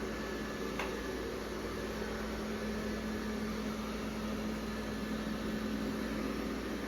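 Roborock Qrevo S robot vacuum running as it cleans the floor: a steady motor hum over a fan hiss, with one brief tick about a second in.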